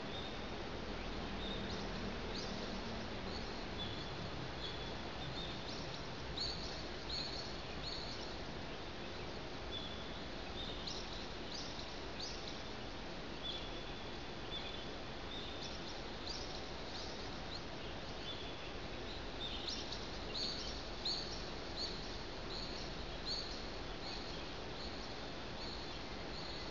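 A bird singing: repeated phrases of short, high chirps and quick downward-sweeping notes, a few each second, over a steady low background hiss.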